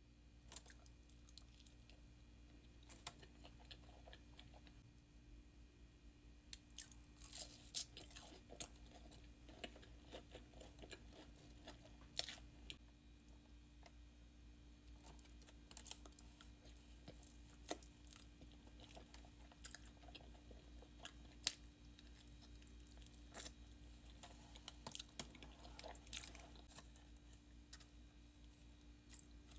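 Close-up mouth sounds of eating breaded fried chicken tenders: chewing and crunching with scattered crisp crackles and clicks, busiest about seven to nine seconds in and again near the end, over a faint steady low hum.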